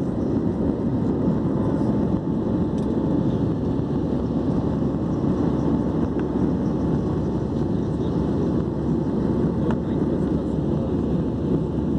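Aircraft cabin noise in flight: a steady, even drone of engines and rushing air heard from inside the plane.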